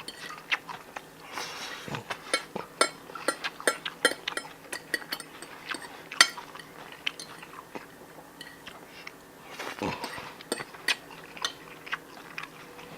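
Someone eating a meal: irregular clicks and clinks of cutlery against dishes, with chewing.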